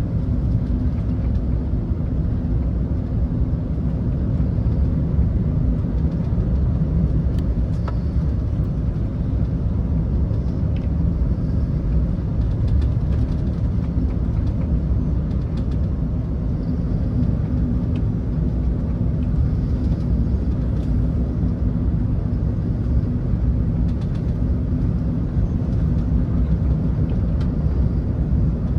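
Steady low rumble of engine and airflow noise inside the passenger cabin of an Airbus A380 airliner, with a few faint ticks over it.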